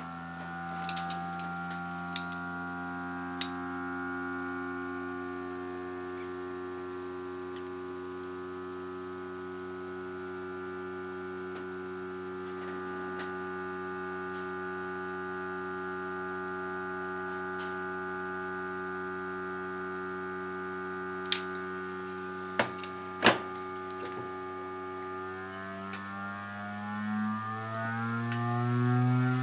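Homemade magnetically levitated generator spinning at high speed, giving a steady hum of several tones whose pitch drifts slowly down. There are a few sharp clicks, most of them about three-quarters of the way through, and the pitch shifts near the end.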